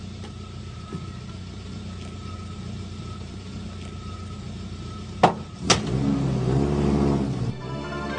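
A motor vehicle engine running with a steady low hum. Two sharp knocks come about five seconds in, and then the engine revs up and down. Guitar music starts near the end.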